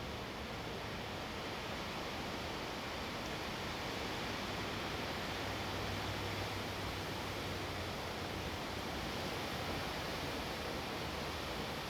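Wind blowing steadily, an even rushing noise that swells a little midway.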